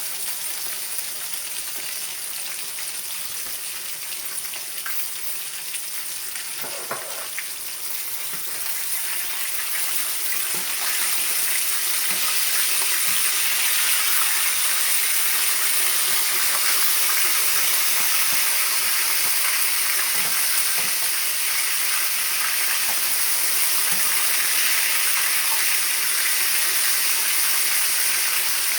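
Chicken frying in hot oil in a skillet: a steady sizzle that grows louder about ten seconds in and then holds.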